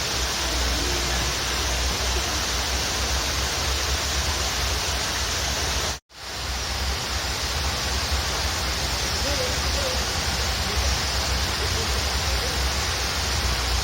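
Waterfall rushing steadily, with a few faint bird chirps. About six seconds in the sound cuts out abruptly for a split second, then fades back in.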